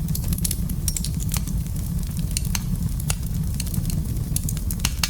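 Wood fire crackling in a fireplace: a steady low rumble of the flames with frequent sharp, irregular pops and crackles.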